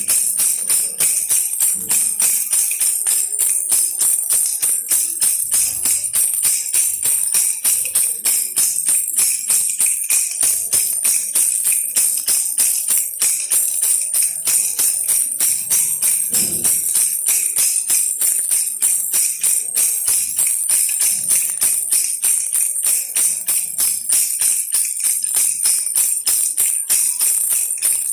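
Baby rattle toy shaken steadily in an even rhythm, a bright, high-pitched rattling at about two to three shakes a second.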